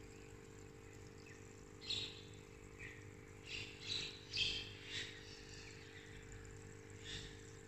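Birds chirping: short, high chirps in a cluster from about two to five seconds in, and one more near the end, over a faint steady hum.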